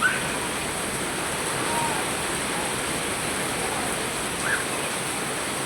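Heavy rain pouring down in a steady hiss, with a few brief faint voices over it.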